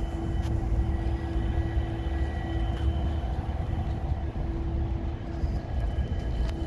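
Diesel freight locomotives running: a steady low engine rumble with a steady hum over it.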